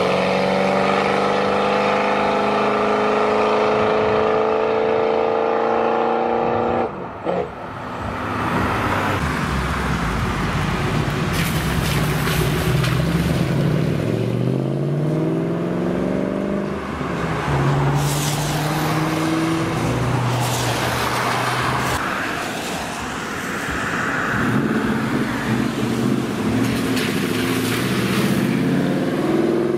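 Cars accelerating away one after another. First a classic American coupe with dual exhausts pulls away with a steady, slowly rising exhaust note; after a cut about seven seconds in, V8 Ford Mustangs, a Shelby GT500 and a Boss 302, rev up through the gears, their tyres hissing and throwing spray on the wet road.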